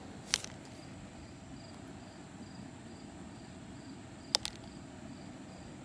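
Two sharp clicks about four seconds apart, typical of plastic action figures being knocked or set down, over a faint steady hiss and a faint high chirp repeating a few times a second.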